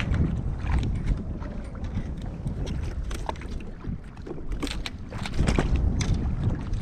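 Wind buffeting the microphone and water moving against an ocean kayak's hull, a steady low rumble, with scattered sharp taps and clicks from gear being handled on the kayak.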